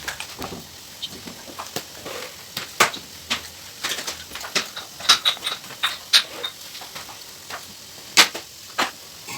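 A string of irregular sharp clicks and knocks, a dozen or so, of uneven loudness, with no steady rhythm.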